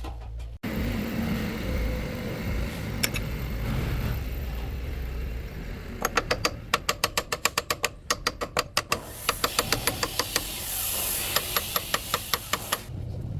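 A steady noise, then two runs of rapid sharp knocks, about seven a second, broken by a short pause.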